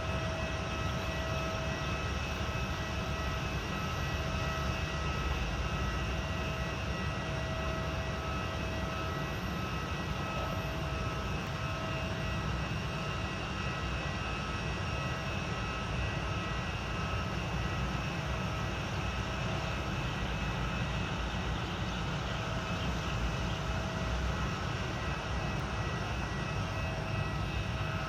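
Jet airliner engines running steadily: a low rumble with a constant whine on top, neither rising nor falling.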